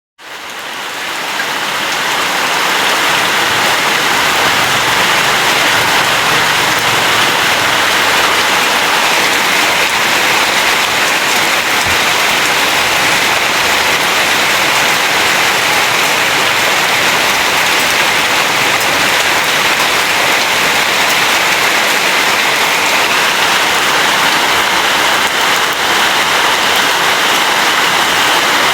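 Steady, dense rainfall, a continuous even hiss of rain falling on leaves and ground, fading in over the first couple of seconds.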